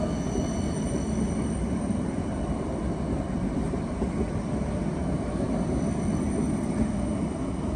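Electric train running, a steady low rumble with faint high-pitched whines that fade away in the first couple of seconds.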